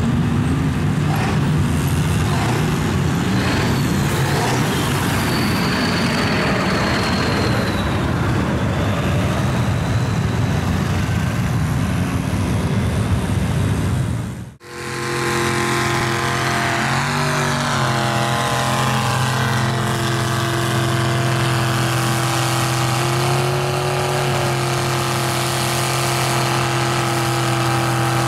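Mud truck engines running loud. The first half is a rough, noisy engine run. After a sudden cut about halfway through comes a steady engine drone at one pitch, which shifts briefly a few seconds after the cut.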